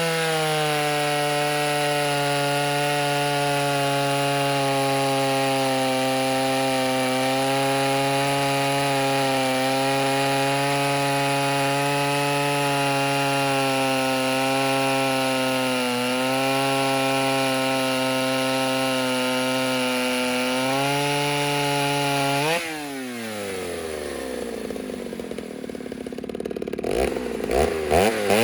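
Ported Stihl 08S two-stroke chainsaw with a stock muffler running flat out under load, cutting wood steadily. After about twenty-two seconds the revs fall away to idle, a few short blips of throttle follow, and it revs back up at the end.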